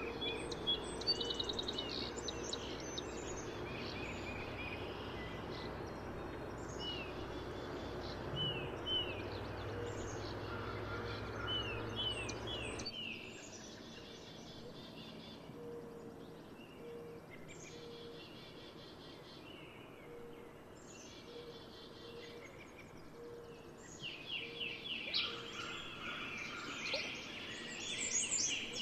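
Several songbirds singing and chirping, many short repeated notes overlapping, over a steady outdoor hiss that cuts off abruptly about halfway through, leaving the birdsong clearer.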